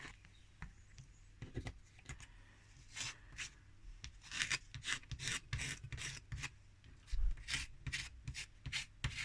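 A blade scraping burnt deposits off a microwave oven's mica waveguide cover in short, repeated strokes. The scraping starts about three seconds in, after a few light clicks.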